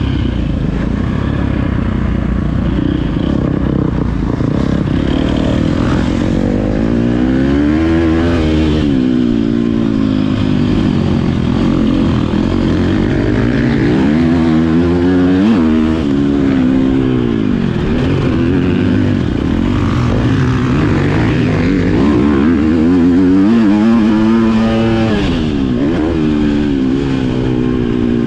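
Motocross dirt bike engine running hard on a track. Its pitch climbs and falls again several times as the throttle is opened and closed.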